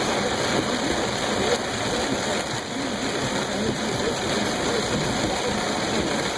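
Heavy rain and running water making a steady rushing noise.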